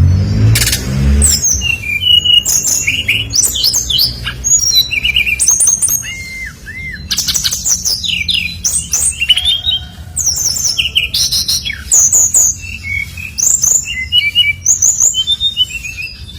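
SRDC songbird singing a rapid, varied song of sharp high chirps and whistled notes, with brief lulls about six and ten seconds in, over a steady low hum.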